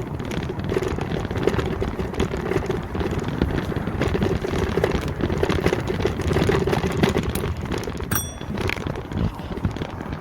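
Wind buffeting the microphone and road noise while riding an electric motorbike, with a faint steady hum underneath. A short high tone sounds about eight seconds in.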